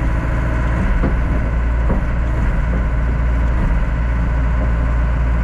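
John Deere 60G compact excavator's diesel engine idling steadily, with a couple of faint knocks about one and two seconds in.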